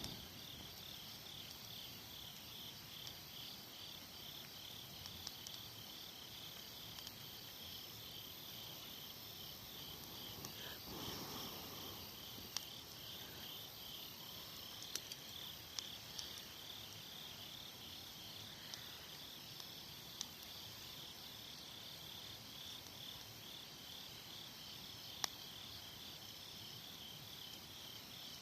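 Autumn night insects chirping in a steady, pulsing high trill, with a few sharp pops from a small wood fire crackling now and then, the loudest near the end.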